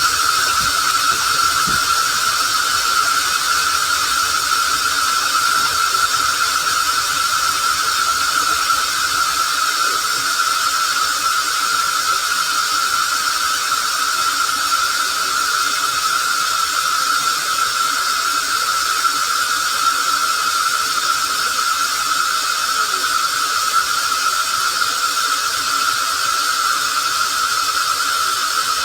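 Water sound run through a voice changer: a steady hiss with a continuous high squealing tone over it, unbroken throughout.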